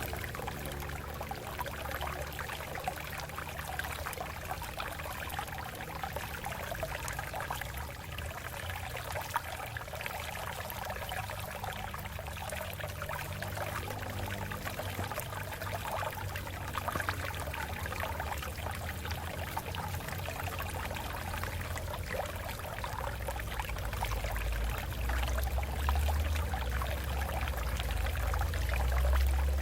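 Water flowing and splashing over rocks in a steady rush with constant small trickling splashes; a deep low rumble under it grows stronger near the end.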